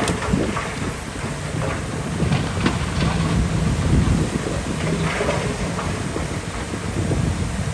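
Komatsu D65 crawler bulldozer's diesel engine running as a steady low rumble, with occasional clanks and clatter from its steel tracks.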